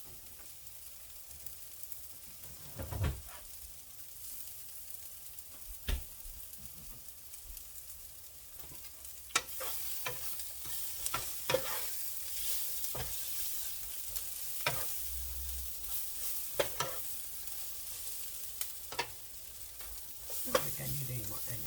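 Sliced bell peppers and onions sizzling in an oiled frying pan, with a utensil knocking and scraping against the pan as they are stirred. The sizzle grows louder about nine seconds in, and the knocks come more often from then on.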